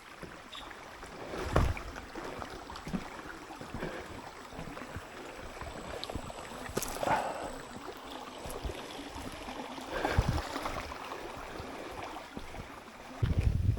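Wind outdoors with a few soft footsteps on a dirt trail, and a loud gust of wind buffeting the microphone near the end.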